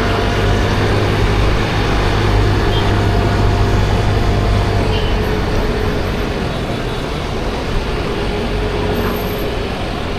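Steady riding noise on a 50cc scooter moving through city traffic: the small engine running, tyres on the road and the surrounding motorbikes, with a steady low rumble.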